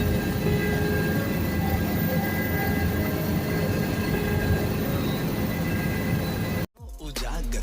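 Steady helicopter engine and rotor noise with a low rumble, cutting off abruptly near the end, where music starts.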